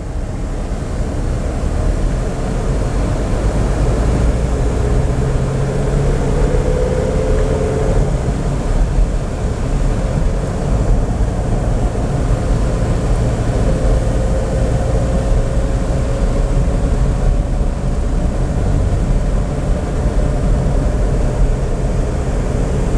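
A car being driven, with steady engine and road noise. A faint engine note rises slowly twice.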